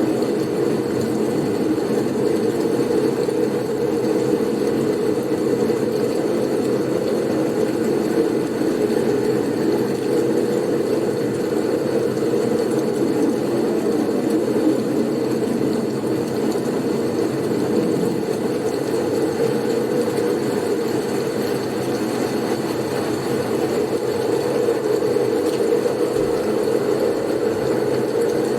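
Steady, low blizzard wind noise, an even rumble with no gusts standing out, and a faint thin high tone held above it.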